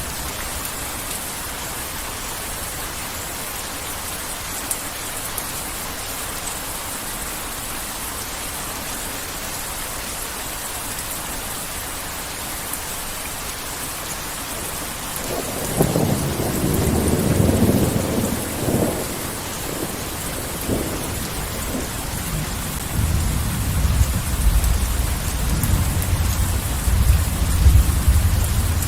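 Heavy rain falling steadily, with a rolling thunderclap a little past halfway and a longer, deeper rumble of thunder building through the last few seconds.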